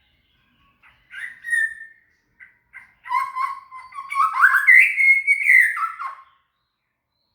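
White-rumped shama (murai batu) song: a run of rich whistled phrases with quick sliding notes and sharp high clicks, building to its loudest whistles near the middle and stopping about a second before the end.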